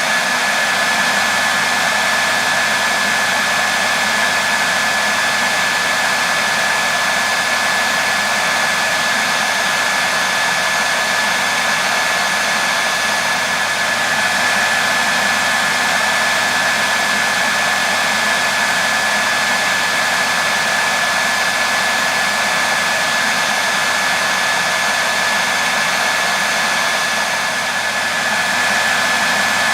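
Hair dryer blowing continuously: a steady, even rush of air with a constant high whine from its motor and fan.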